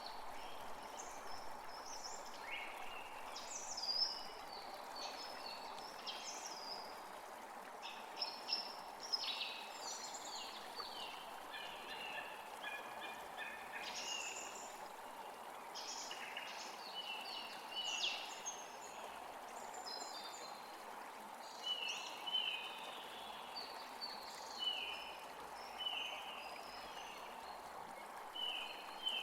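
Several small birds chirping and calling over a steady background hiss. In the last third, one bird repeats a short falling note about once a second.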